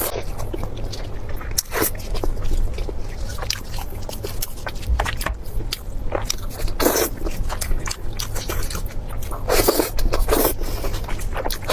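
Close-miked eating sounds: biting and chewing food, with frequent short wet clicks and smacks and a few louder crunchy bites.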